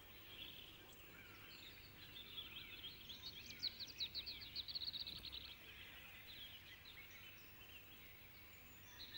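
Faint songbird song and calls over quiet outdoor background, with a rapid trill of many short notes in the middle.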